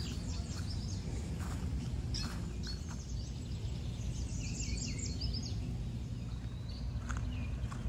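Wild birds chirping and calling in short bursts, several calls clustered about a second and a half in and again around four to five seconds in, over a steady low background rumble.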